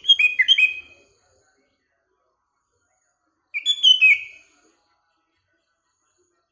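Sooty-headed bulbul (kutilang) singing: two short phrases of quick, downward-slurred whistled notes, one at the start and another about three and a half seconds in, with silence between.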